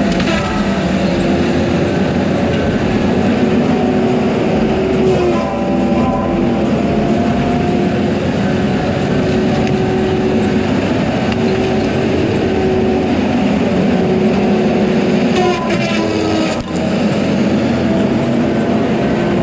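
Heavy diesel machinery running steadily under load, its engine note shifting in pitch about a third of the way in and again near the end, with some metallic clatter near the end.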